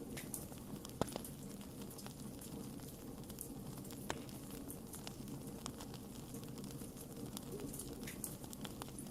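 Wood fire crackling, with irregular sharp pops and snaps throughout and louder snaps about a second in and about four seconds in, over a steady low background.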